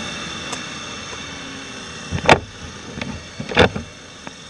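Steady vehicle and wind noise, broken by two loud, sharp bangs a little over a second apart.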